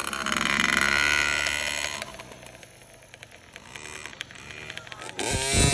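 Dirt bike engines running on a motocross track: loud revving for the first two seconds, fading for a few seconds, then rising loudly again near the end.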